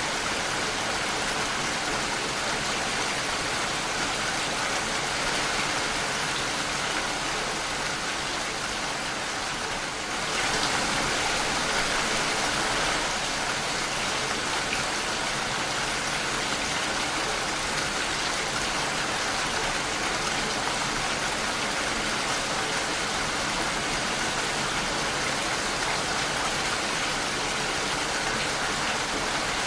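Steady rain falling against a window pane, briefly heavier about ten seconds in.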